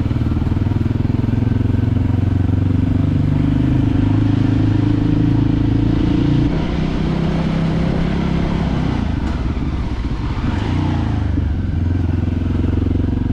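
Voge 300GY dirt bike's single-cylinder engine running under way, its note climbing slowly and then dropping suddenly about halfway through, as with a gear change or the throttle easing off, before picking up again near the end.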